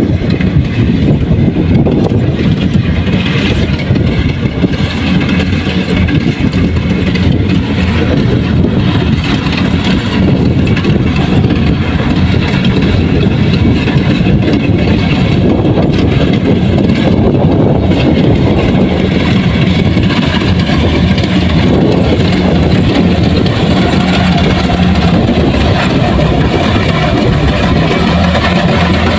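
Kubota DC-105X rice combine harvester's diesel engine running steadily under load, with a constant low hum under the rattle and clatter of the machine at work.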